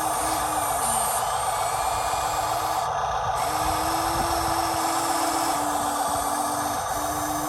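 Small electric motors and plastic gearboxes of radio-controlled construction models running with a steady whine. The whine breaks off and restarts at a slightly higher or lower pitch several times as the controls are worked.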